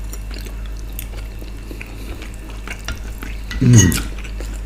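Cutlery clicking and scraping against a plate while eating, over a steady low hum. About three and a half seconds in there is one short vocal sound that falls in pitch.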